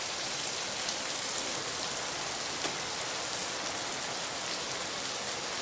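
Rain falling steadily, an even hiss of drops, with one faint tick about two and a half seconds in.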